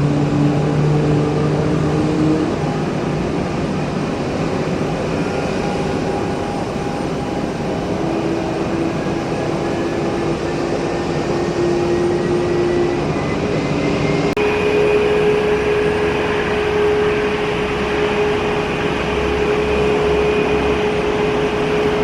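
Jet airliner engines running: a steady noise with several held whining tones, one of them slowly rising. The sound changes abruptly about two-thirds of the way through.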